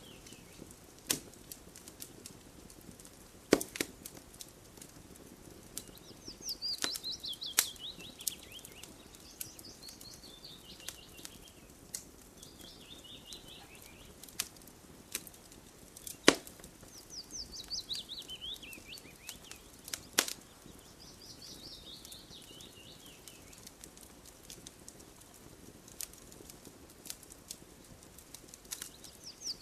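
Campfire crackling, with a few sharp pops standing out over a soft background. A bird repeatedly sings a rapid trill of notes that falls in pitch, several times.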